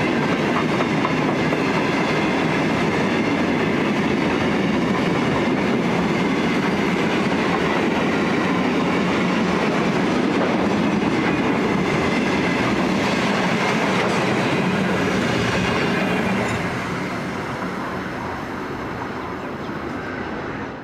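Empty ballast hopper wagons rolling past, a steady noise of steel wheels running on the rails with some clickety-clack. It drops away about sixteen seconds in as the last wagons pass.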